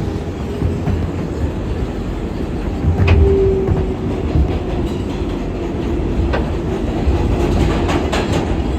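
R188 subway train running along the track, heard from inside the car: a steady rumble with a steady whine that comes in about three seconds in. Sharp clicks from the wheels over rail joints come about three seconds in, about six seconds in and several times near the end.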